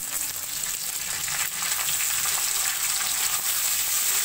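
Potato cubes and freshly added poi (Malabar spinach) greens sizzling in hot oil in a metal kadhai, a steady frying hiss, with faint scrapes and taps of a slotted metal spoon stirring them.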